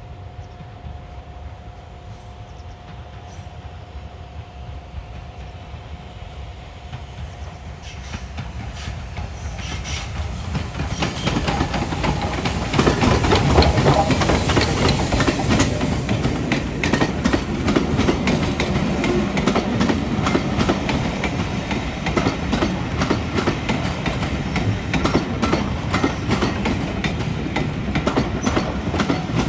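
A heritage train approaches and passes, growing louder from about a third of the way in. Its wheels clatter over the rail joints in a dense run of clicks and knocks.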